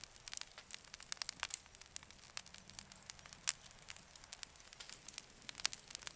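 Campfire crackling: irregular sharp pops and snaps over a faint hiss, with one louder pop about halfway through.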